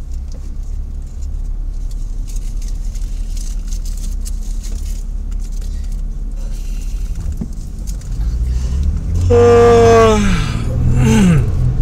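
Car engine heard from inside the cabin, running low and steady while stopped, then louder as the car pulls away about eight seconds in. Near the end, two short tones slide down in pitch, the first being the loudest sound.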